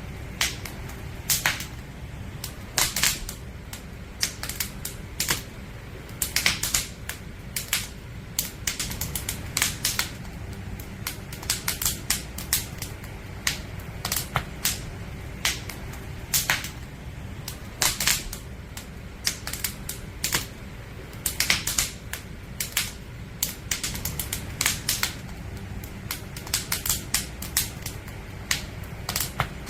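Wood fire crackling: logs burning in a campfire give off irregular sharp pops and snaps, several a second, over a steady low rumble.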